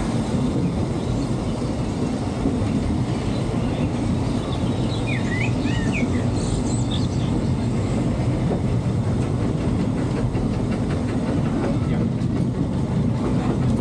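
Narrow-gauge steam train rolling along at a steady pace, heard from an open passenger car: a continuous low rumble of the car and its wheels on the track, with some clicking over the rail joints near the end.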